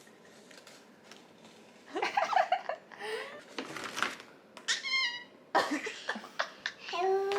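A toddler's high-pitched squeals and vocal cries, starting about two seconds in and coming several times, with one very high squeal about halfway through.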